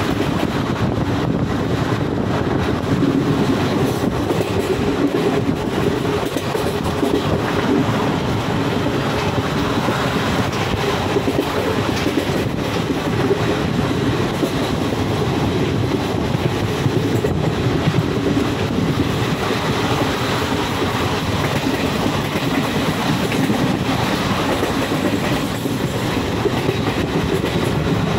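Passenger train running at speed, heard from aboard a coach: the steady, unbroken noise of the wheels on the rails.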